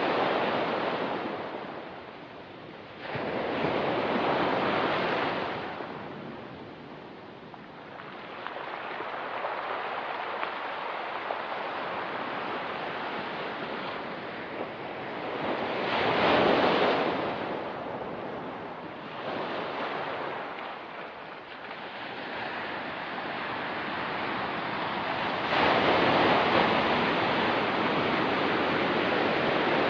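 Ocean waves breaking and washing on a rocky beach, the surf swelling and easing in repeated surges, the strongest about halfway through and another long one near the end.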